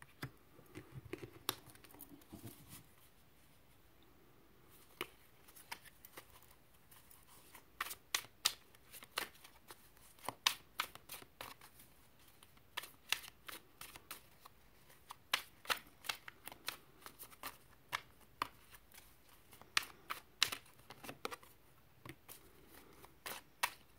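Tarot cards being shuffled by hand: a run of quick, irregular card snaps and flicks, sparse at first and much busier from about eight seconds in.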